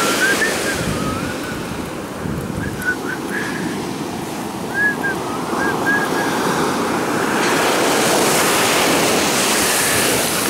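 Ocean surf: waves breaking and washing up the shore in a steady rush that swells louder from about seven seconds in as a large wave surges in.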